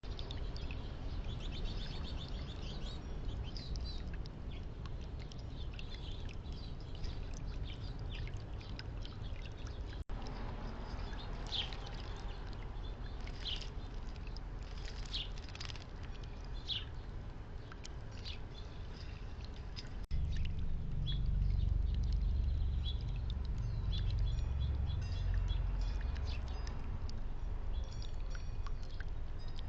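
Small backyard songbirds chirping and calling in short, high notes over a steady low rumble, which grows louder about two-thirds of the way through.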